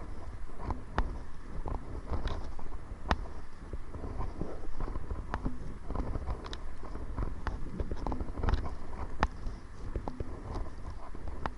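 Kayak on choppy water against the wind: irregular small knocks and splashes of water and paddle against the hull, over a steady rumble of wind on the microphone.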